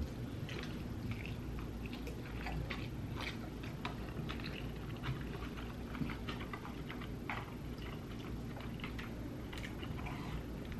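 Close-up chewing of a quesabirria taco: many small, irregular wet mouth clicks.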